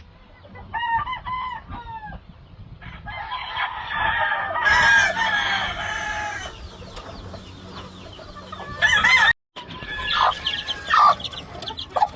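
Several gamefowl roosters crowing, one after another and overlapping in places, with chickens clucking in between. The sound cuts out completely for a moment about three-quarters of the way through, then the crowing goes on.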